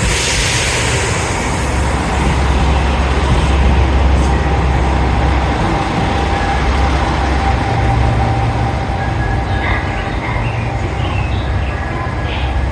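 JR Shikoku 2000 series diesel railcar running, a steady low engine drone with rail noise whose note shifts partway through; a hiss fades out in the first second.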